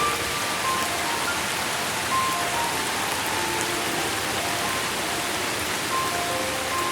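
Steady rain hiss with sparse, soft single music notes scattered over it at a slow pace.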